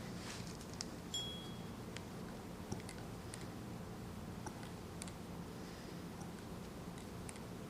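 Quiet room tone with a few faint scattered clicks and small knocks, as of parts being handled on a bench, and a brief high thin tone a little after a second in.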